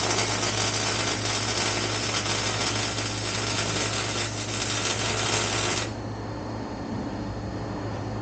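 A steady hissing crackle from a shop tool starts abruptly and cuts off about six seconds in, over a constant low hum.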